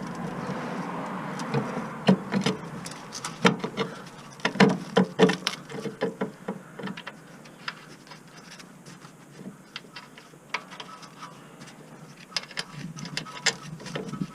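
Scattered sharp clicks and knocks of metal tools and parts being handled, in a quick cluster a few seconds in and sparser after.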